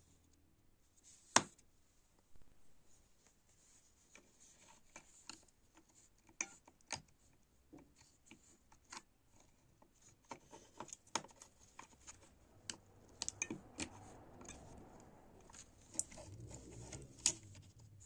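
Hand work on small parts: scattered small clicks and taps, with a sharp click about a second in. Light rubbing or scraping builds near the end, broken by another sharp click.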